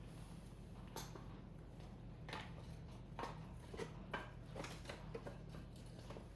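Firewood burning in a Picogrill fire pit: scattered crackles and pops from the wood at irregular intervals, a little more frequent in the second half, over a faint steady low hum.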